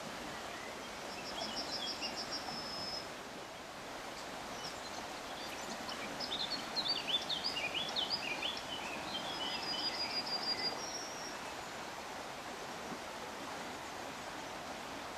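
Songbirds chirping over a steady hiss of woodland ambience: a fast high trill about a second in, a busy spell of varied chirps from about six to ten seconds, and another high trill near eleven seconds.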